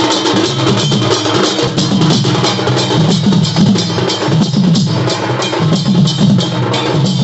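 Music driven by loud, fast, steady drumming, the strikes following each other rapidly and without a break.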